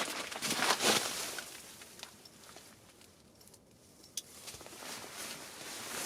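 Footsteps in deep snow: a couple of steps near the start, a quieter stretch with a single click about four seconds in, then more steps building toward the end.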